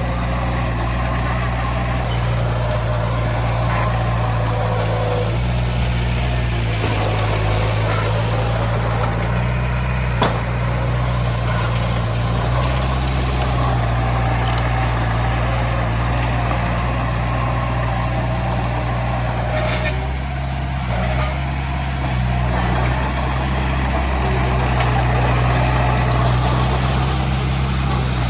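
Heavy diesel engine of earthmoving equipment running steadily, its pitch dropping and rising a few times, with a single sharp knock about ten seconds in.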